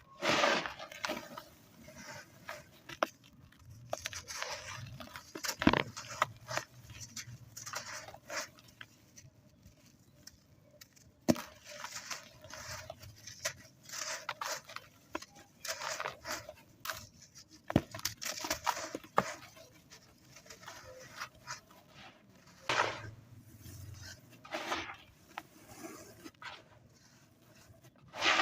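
Dry, crispy sand clumps being crumbled and crushed by hand: irregular crunches and sharp cracks with short quiet gaps between them.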